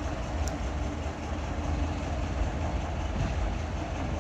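Small diesel shunting locomotive's engine running with a steady low throb; its gearbox is basically silent.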